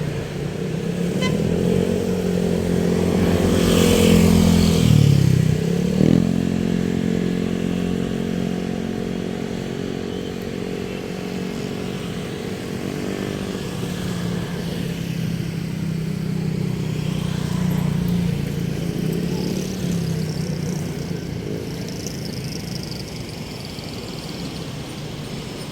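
Motor vehicle traffic: engines running with road noise, one vehicle passing close about four to six seconds in, its engine pitch dropping as it goes by.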